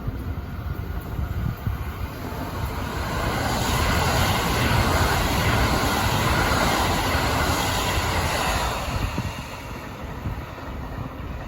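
Kintetsu limited express train passing through a station at speed without stopping: a rushing rail noise that builds a few seconds in, holds loud for several seconds, then fades away.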